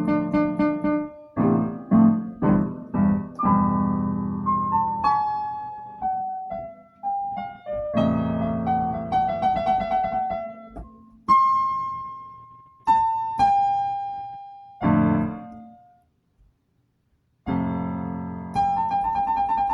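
Piano playing, struck chords and single melody notes each ringing and fading, with a brief stop of about a second and a half near the end before the chords start again.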